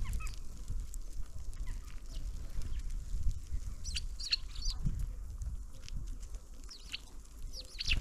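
Birds at a winter feeder calling: short high calls, several falling quickly in pitch, bunched about four seconds in and again near the end, over a steady low rumble.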